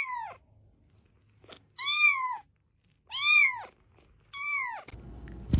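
Domestic cat meowing repeatedly, about once every one and a half seconds, each meow rising then falling in pitch. Near the end a sharp click sounds.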